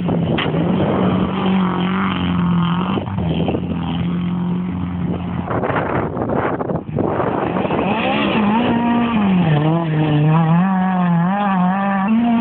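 Rally car engine driven hard on a gravel stage, its note rising and falling repeatedly as the revs change, more so in the second half.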